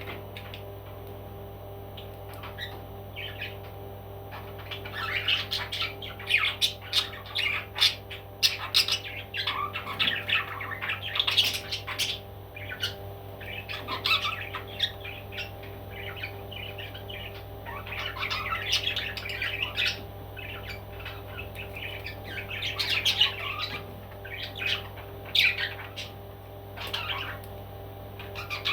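A pet parrot squawking and chattering in many short, irregular calls, over a steady low hum.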